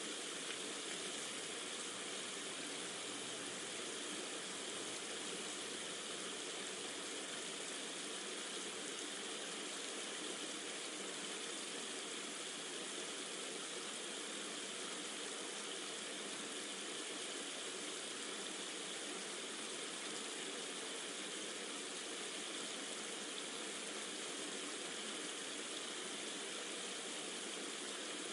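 Steady recorded ambience of running water: an even rushing hiss with no distinct drops, knocks or other events.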